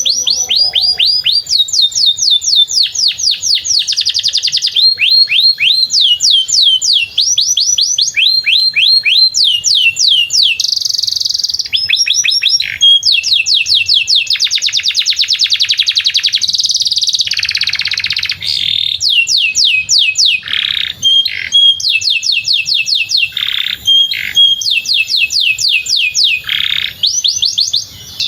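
Domestic canary singing a long unbroken song: fast trills of repeated down-slurred notes, switching between tours of different speeds, with a few buzzier rolls.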